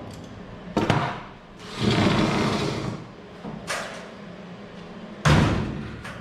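Truck cab door being opened and shut to test a newly fitted door latch: a sharp clunk about a second in, a rushing scrape around two seconds, a click, and a louder slam about five seconds in as the door latches.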